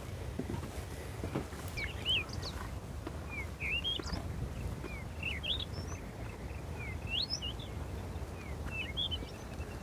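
Small birds chirping again and again in short, quick notes that rise and fall, over a steady low rumble. A few soft knocks come in the first second or so.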